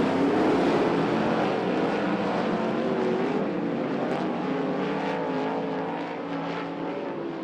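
Dirt track race car engines running on a clay oval, their pitch wavering up and down as they go through the turns, the sound slowly fading.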